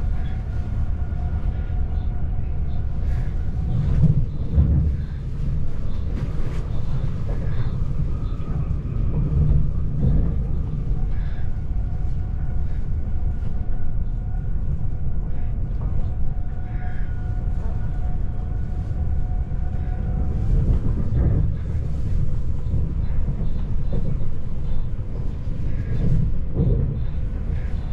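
Electric commuter train running at speed, heard from inside the carriage: a steady low rumble of wheels on the rails with scattered clicks. A faint steady whine comes and goes.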